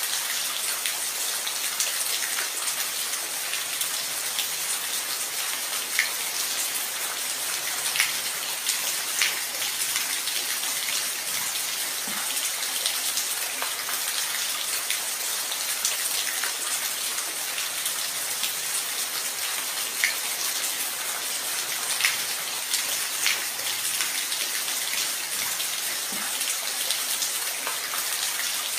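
Steady rain falling, a continuous hiss with distinct individual drops ticking and splashing close by every second or so.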